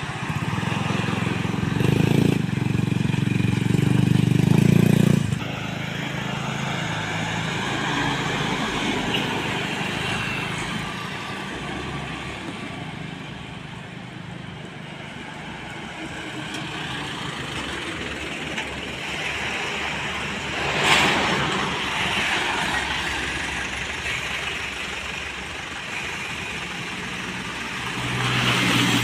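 Roadside traffic of passing trucks. A heavy truck's engine is loud for the first five seconds or so and then drops away. Steady traffic noise follows, with another vehicle passing about twenty-one seconds in.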